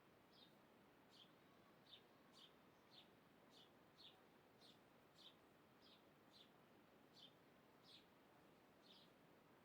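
A bird calling faintly over a soft hiss: one short, high chirp that slides downward, repeated steadily about every half second to two-thirds of a second.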